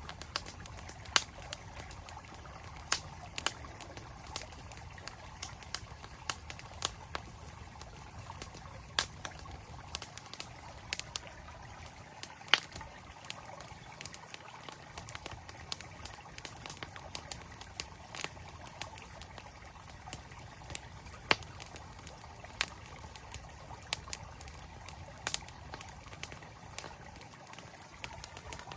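Campfire crackling with sharp, irregular pops, several a few seconds apart, over the steady flow of a mountain stream.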